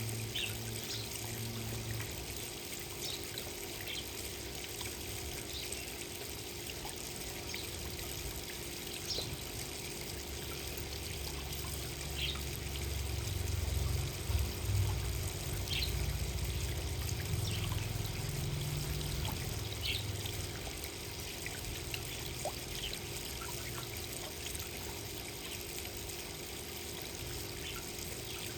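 Water trickling and pouring steadily, with scattered brief high-pitched ticks through it. A low rumble swells and fades in the middle.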